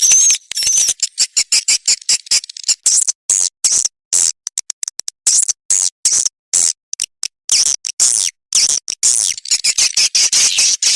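Recorded calls of edible-nest swiftlets played as a swiftlet-house lure sound: a rapid, unbroken stream of high, sharp chirps and clicks, with a few wavering twitters near the start.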